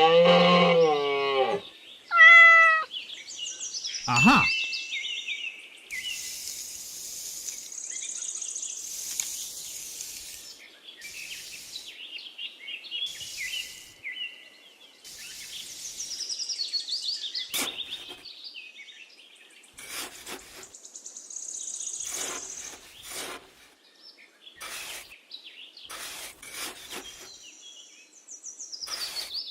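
A drawn-out animal cry with a wavering pitch near the start and a short higher call just after. Then the sound turns to scattered bird chirps and hissy outdoor sounds.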